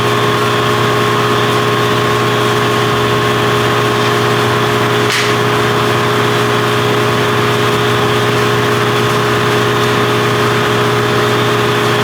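A machine running steadily with a constant, unchanging hum, and one short hiss about five seconds in.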